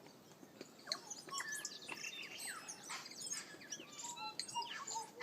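Tui singing: a busy run of varied short whistles, chirps and clicks that starts about a second in.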